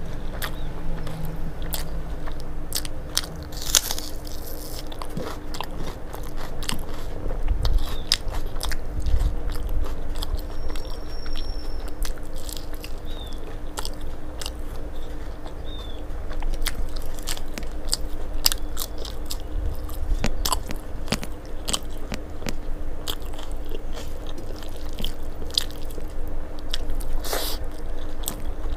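Close-miked chewing and crunching of food, with many short crisp crunches, as rice is eaten by hand and fried fritters are bitten into.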